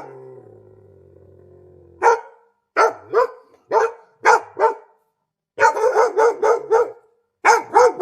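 Dog barking, starting about two seconds in: several separate barks, then a quick run of about six, then three more near the end.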